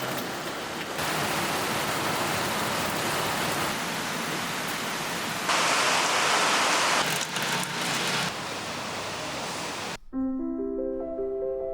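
A steady rushing noise that changes level abruptly a few times, as if cut together from separate stretches, and stops suddenly about ten seconds in. Soft piano music begins at that point.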